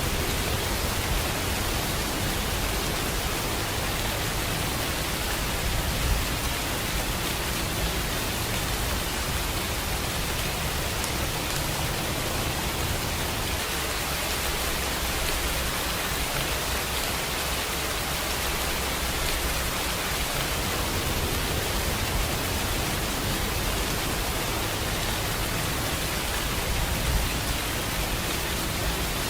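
Steady rainfall: an even hiss of rain with a few slightly louder drops or splashes.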